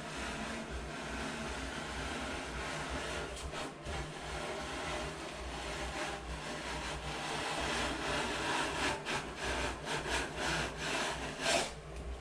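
Rough scraping and rubbing strokes of a hand tool worked over drywall joint compound on a wall, coming quicker and sharper in the second half, over a steady low hum.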